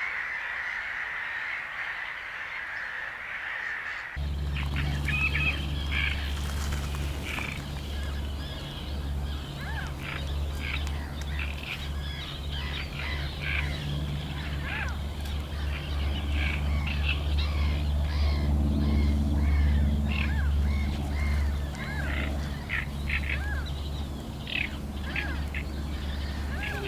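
Many birds making short, quick calls, likely waterfowl on a lake, over a steady low rumble. The scene changes abruptly about four seconds in, from a soft, even hiss to the calls and rumble.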